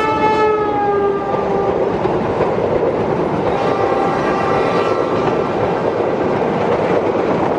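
A train running past with a steady rumble; its horn sounds as it opens, dropping slightly in pitch and fading out within about a second and a half, and a second, fainter horn blast comes about four seconds in.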